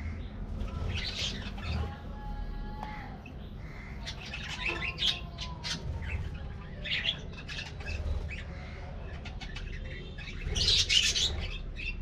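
A flock of budgerigars chirping and squawking together, a dense chatter of short calls with a louder burst near the end.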